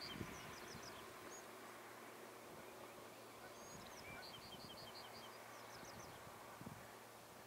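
A small bird singing faintly: a quick run of even, high notes and then a few higher ones, once at the start and again about four seconds later, over quiet outdoor background.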